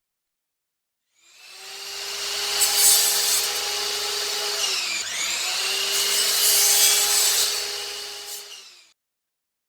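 An electric power tool working wood, its motor whine steady, then dipping in pitch about halfway through as it bogs under load before picking back up. The sound fades in about a second in and fades out just before the end.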